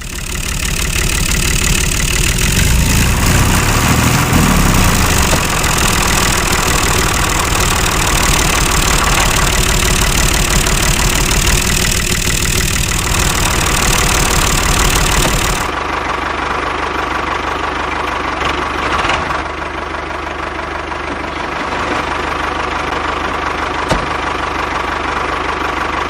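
A small engine running steadily. About two-thirds of the way through, the sound shifts abruptly to a duller version of the same running noise.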